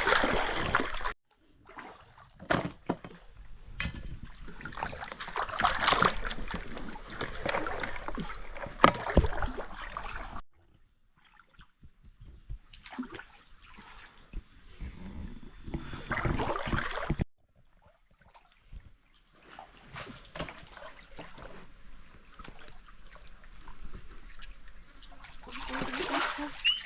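Water splashing and sloshing with irregular knocks, in several short clips cut together, with a steady high hiss in the background of some of them.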